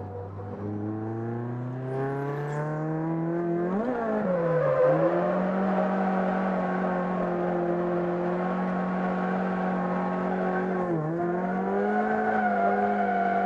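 Toyota AE86 Sprinter Trueno's 4A-GE twin-cam four-cylinder engine heard from inside the cabin while drifting. The revs climb for about four seconds, flare up and drop quickly around four to five seconds in, then are held high and steady, with a brief dip about eleven seconds in.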